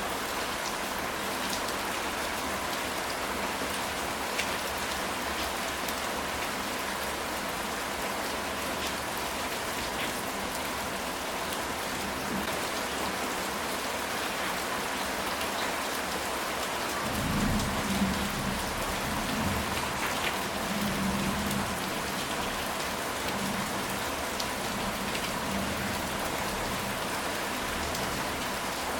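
Steady rain falling on a ceramic tile roof, an even hiss with scattered drop ticks. About two-thirds of the way in, a low rumble of distant thunder rolls for several seconds and fades back into the rain.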